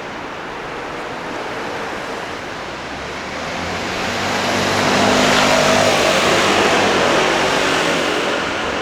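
A motor vehicle passing close on a street: engine hum and tyre noise rise over a few seconds, peak just past the middle, and fade away near the end, over steady traffic background noise.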